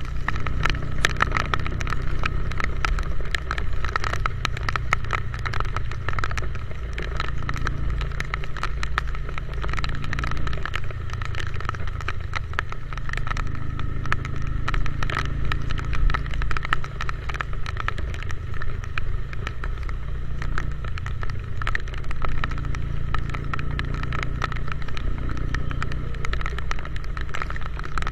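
Motorcycle riding in the rain: low engine and wind rumble on the microphone, with many sharp crackles throughout from raindrops striking it.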